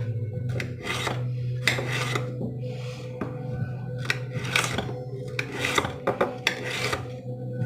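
A run of irregular scraping and rubbing strokes from kitchen prep work, over a steady low hum.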